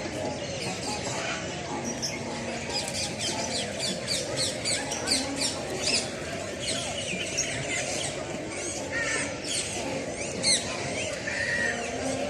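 Many caged birds chirping and squawking at once in a dense, busy chorus over a steady background murmur, with one sharper, louder squawk near the end.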